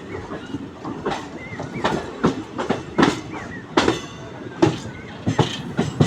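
Train wheels clattering over the rail joints as the train rolls slowly into the station: a steady rumble broken by sharp knocks, about one to two a second.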